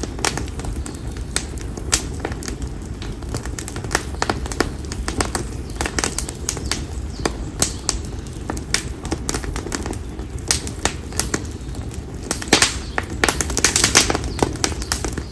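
Konara oak firewood burning in an open bonfire: a steady low rumble of the flames with irregular sharp crackles and pops, busier and louder about two-thirds of the way in.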